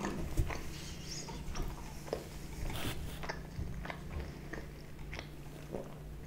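Close-miked mouth sounds of someone chewing pizza: soft wet clicks and smacks scattered through, with a brief rustle about three seconds in.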